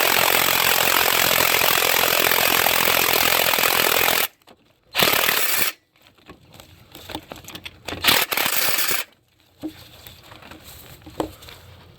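Cordless wrench running to back out the long upper bolt of a starter motor: one run of about four seconds, then two short bursts, followed by faint clinks of metal.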